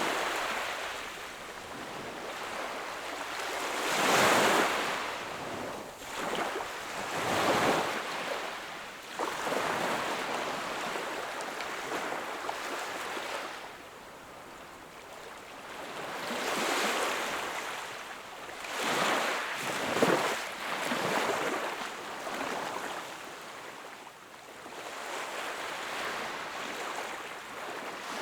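Small ocean waves breaking and washing onto the shore in repeated swells, the loudest surges about 4 s in, around 7 to 8 s, and from about 17 to 21 s, easing to a quieter hiss between.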